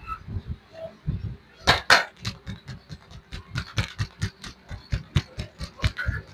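Hands slapping and striking bare oiled legs in a percussive massage, a quick irregular run of about three to four smacks a second. Two louder, sharper smacks come a little under two seconds in.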